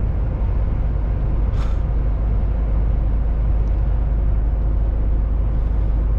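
Steady engine and road rumble of a MAN TGX semi-truck driving at a constant pace, with a faint steady hum and one brief hiss about a second and a half in.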